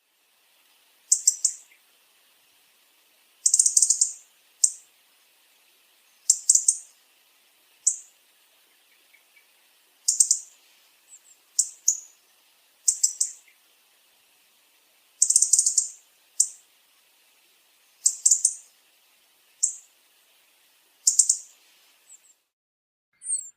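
European robin chirping: about a dozen short, high-pitched bursts repeated every second or two, over a faint steady hiss.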